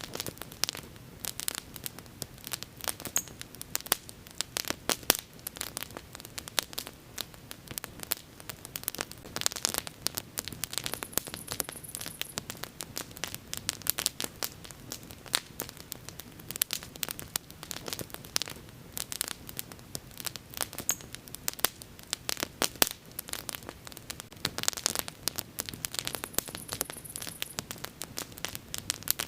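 Wood bonfire crackling: irregular sharp pops and snaps, some loud and many small, over the low steady hiss of the flames.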